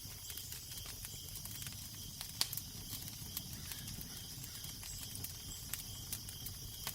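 Wood fire crackling with scattered sharp pops, a louder one about two and a half seconds in, over a steady low wind rumble and a high hiss.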